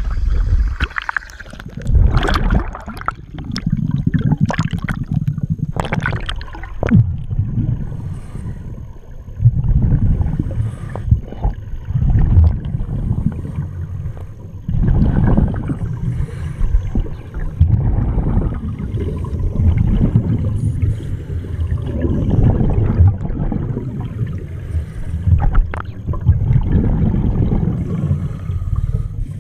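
Underwater gurgling and bubbling from a scuba diver's exhaled breath, swelling in surges every few seconds.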